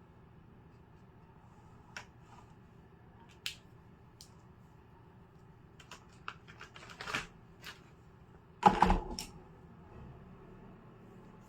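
Scattered light clicks and taps of small objects being handled on a desk, with a quick run of taps and then a louder knock and rustle about nine seconds in.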